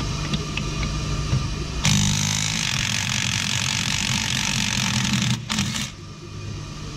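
Ammco 4000 brake lathe running with a steady hum as it machines a brake rotor. About two seconds in, a loud steady hiss starts over it, lasts about four seconds with a brief break, and stops.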